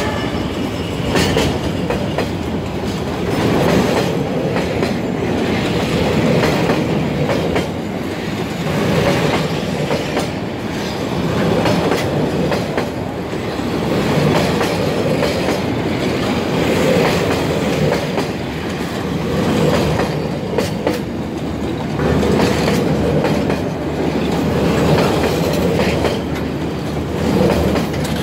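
Railway passenger coaches rolling past at close range: a steady rumble of steel wheels on rail, broken by repeated clacks as the wheels run over rail joints.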